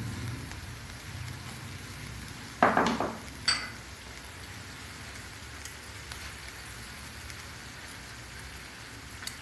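Diced tomatoes, chillies and butter sizzling steadily in a hot brass kadhai on a gas burner. About three seconds in come a short clatter and a sharp metallic clink.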